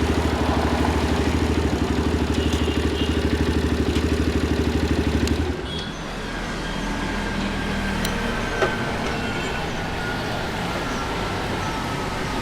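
Motorcycle engine running steadily with an even pulsing beat, then cutting out abruptly about five and a half seconds in, leaving street traffic noise. A sharp click comes a few seconds after the engine stops.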